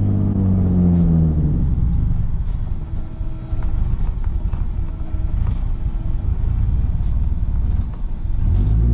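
Big-turbo Nissan 350Z's V6 idling just after a cold start: the idle drops about a second in and then runs rough and uneven, with the engine revving up near the end.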